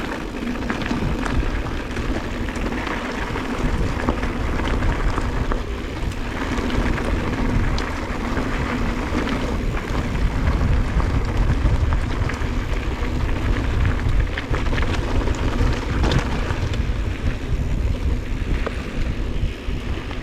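Wind buffeting the microphone on a fast mountain-bike descent, over the rumble of knobby tyres rolling on rough trail and frequent rattling clicks from the Giant Trance 2 bike.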